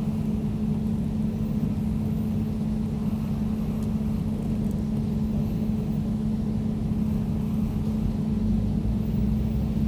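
Air conditioner running: a steady low hum with a droning tone over a low rumble of airflow and machinery.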